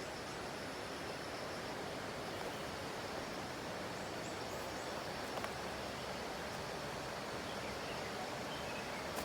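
Steady outdoor background rush with a few faint, high bird chirps.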